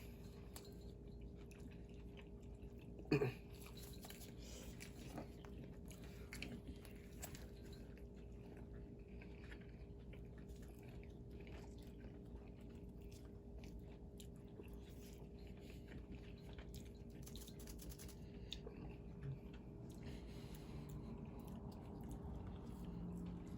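Quiet chewing and biting of fast food, with small mouth clicks and a soft crunch now and then, over a steady low hum. A brief louder sound comes about three seconds in.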